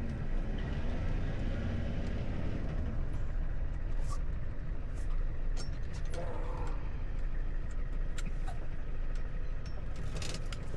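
Tow truck engine running at low speed, a steady low rumble, with a few sharp clicks.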